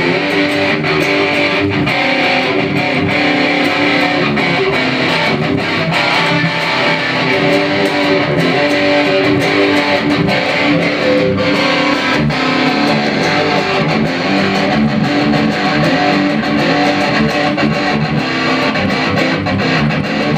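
Electric guitar played continuously through a Ray's Pedals LittleBlues pedal pushing a Marshall amplifier into heavy saturation, giving a dense, steady distorted tone.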